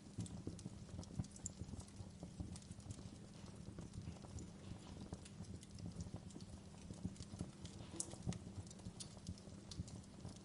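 Wood fire burning in a fireplace: a low steady rumble of flames with irregular crackles and sharp pops from the burning logs.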